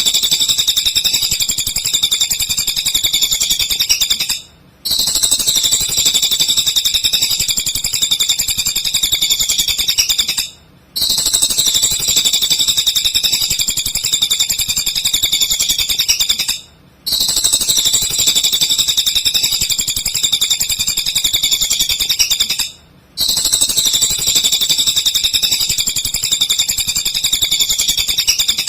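Cililin songbird singing nonstop (gacor): fast, high-pitched chattering song in bouts of about six seconds, each broken by a brief half-second pause, used as a tutor song for training white-rumped shamas.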